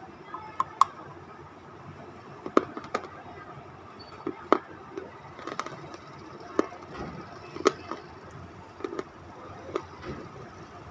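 Close-up chewing of a hard, chalky white lump: sharp crunches and wet mouth clicks at irregular intervals, about one a second.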